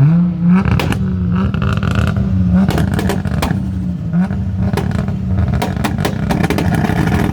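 A car engine being revved hard and held high, dipping briefly about four seconds in before climbing again, with many sharp exhaust pops in the second half.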